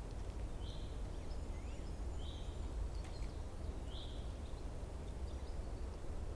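A small bird giving a short, high call four times, about once every second and a half, with a few fainter chirps in between, over a steady low rumble of outdoor background noise.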